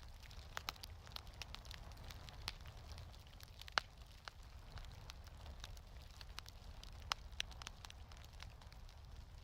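Wood fire crackling in a fireplace: irregular small pops and snaps over a low steady rumble, with a sharper pop a little before the middle and another about three-quarters of the way through.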